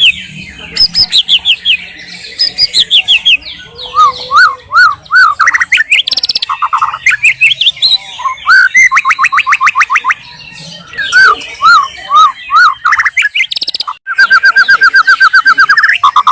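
White-rumped shama singing a loud, varied song. Phrase follows phrase: rapid trills, runs of repeated rising and falling whistled notes, and fast chattering series, with a short pause about three quarters of the way through.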